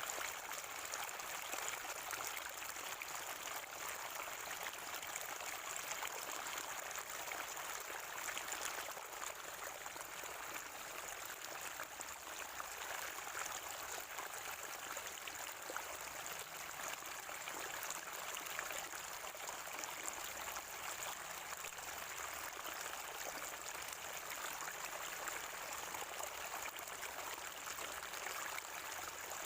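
Spring water gurgling and trickling in a steady, unbroken flow, with a steady high hiss above it.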